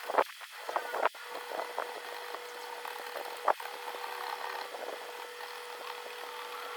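Small tools scraping and rubbing against the parts of a compact camera being taken apart, with a few sharp clicks, the loudest about halfway through.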